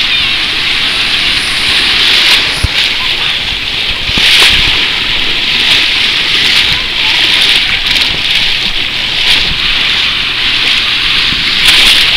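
Seawater splashing and sloshing close around a waterproof camera carried by an ocean swimmer, a loud hiss of water that surges and eases about every two seconds.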